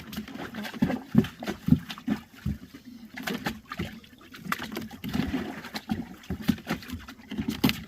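An animal splashing and thrashing in a tub of collected rainwater: irregular sloshes of water mixed with quick knocks, with no steady rhythm.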